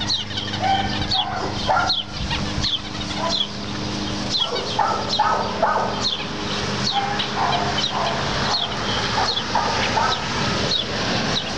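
Birds chirping over and over in short falling notes, mixed with short mid-pitched animal calls over a steady low hum.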